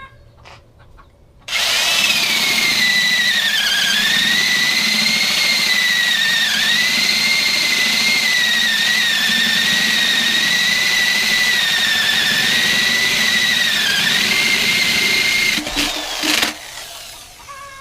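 Electric drill boring a 1.5-inch hole through a wooden hive board: the motor starts about a second and a half in and whines steadily, its pitch sagging briefly a few times as the bit bites into the wood. It stops about fifteen seconds in, followed by a short second burst.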